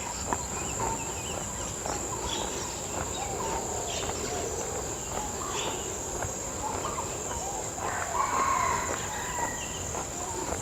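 Outdoor nature ambience: a steady high-pitched insect drone, like crickets or cicadas, with scattered short bird chirps over it.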